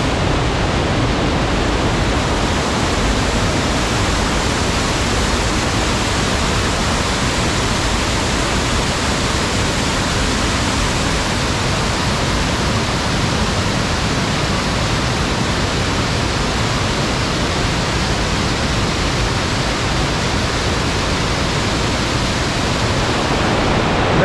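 Steady, loud rush of fast-flowing spring water cascading down, the high flow of a spring-fed waterfall.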